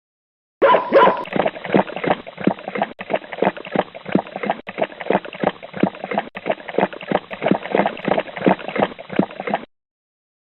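A dog barking in a fast, continuous run of short barks, about four or five a second, starting about half a second in and stopping abruptly near the end.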